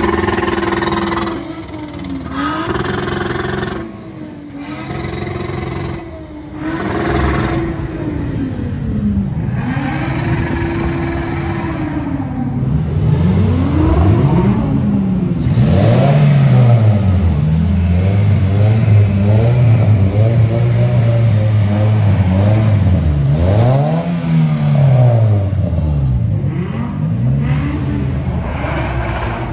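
Car engines revved again and again, the pitch rising and falling in quick blips. Midway a car holds high revs for several seconds while doing a tyre-smoking burnout, then revs in more blips.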